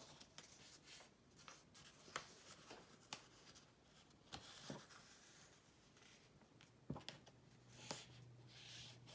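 Faint rustling and sliding of a sheet of paper being folded and creased by hand, with a few short sharp ticks scattered through it.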